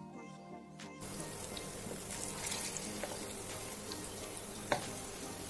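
Plantain dumplings deep-frying in coconut oil: a steady sizzle that sets in about a second in. Near the end a slotted metal spoon gives one sharp clink against the pan as the dumplings are turned.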